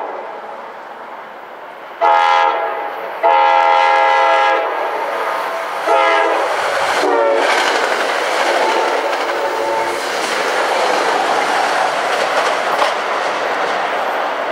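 Commuter train sounding its multi-note air horn: a short blast, then a long one, then a last blast whose pitch drops as the train reaches and passes. After the horn comes the loud, steady rush and clatter of the cars going by at speed.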